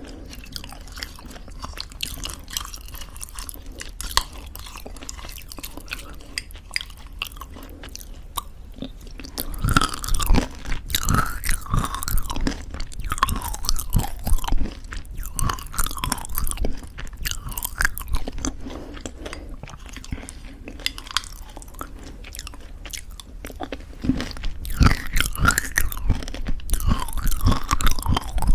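Close-miked chewing of homemade granola in thick yogurt: crunchy crackles and wet mouth sounds, louder in spells about a third of the way in and again near the end.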